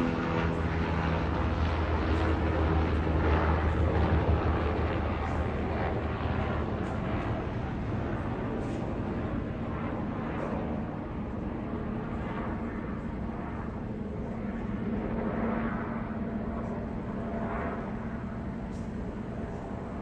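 Airliner engine noise: a rumble that is loudest in the first few seconds and slowly fades, with a steady hum coming in about halfway through.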